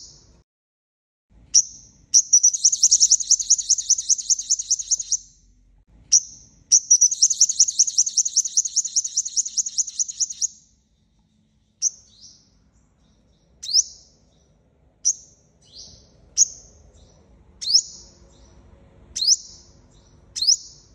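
Sunbird song: two long, rapid, high-pitched trills, each opened by a sharp note, followed by a series of single sharp downslurred call notes repeated roughly every second or so.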